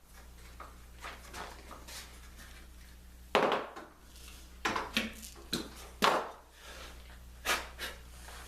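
Irregular knocks and taps of wood being handled and pressed into place, about ten over several seconds, the loudest about a third of the way in and past the middle.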